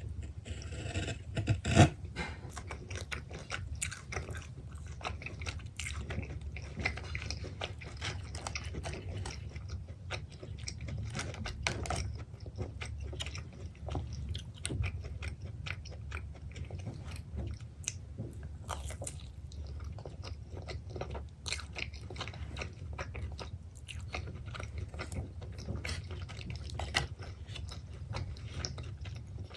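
Close-miked biting and chewing of pepperoni pizza, with a steady stream of small wet clicks and crunches and one louder bite about two seconds in. A steady low hum runs underneath.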